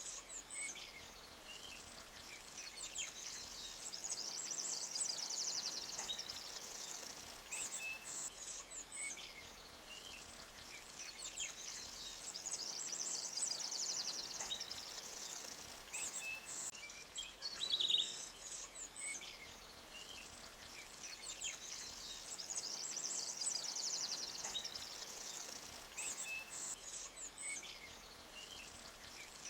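Forest ambience: small birds chirping and trilling in short phrases every few seconds over the faint, steady rush of a clear stream flowing between rocks.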